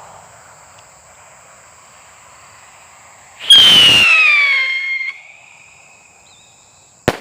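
Rojão skyrocket firework going off: a sudden loud hiss with a whistle falling in pitch about three and a half seconds in, lasting about a second and a half, then a single sharp bang near the end as it bursts.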